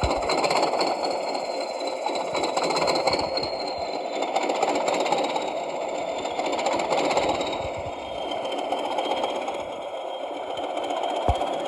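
DCC sound decoder in an OO-scale NIR Hunslet model locomotive playing its diesel engine running after a cold start, heard through the model's small speaker. A thin high whine sits above the engine and dips slightly in pitch about two-thirds of the way in. There is a single low thump near the end.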